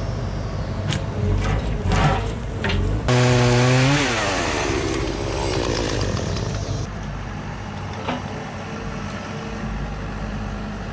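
A chainsaw revs loudly about three seconds in, then drops in pitch as the throttle is let off, after a few sharp knocks. A steady low engine hum runs underneath.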